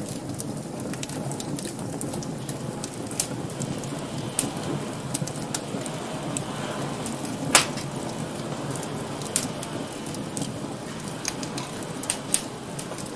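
Wood fire burning in a fireplace: a steady low rush of flames with irregular sharp crackles and pops, one louder pop about halfway through.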